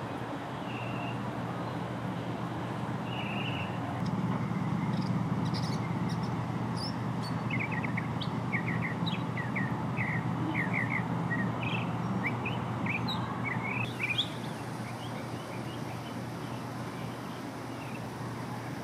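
A bird chirping: a couple of faint high calls early on, then a quick run of short, high chirps around the middle, over a steady low background hum.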